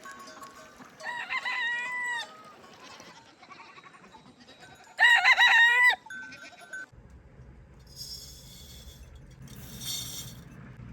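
Rooster crowing twice, about a second in and again, louder, about five seconds in. After that a steady low hum sets in, with two short hissing scrapes.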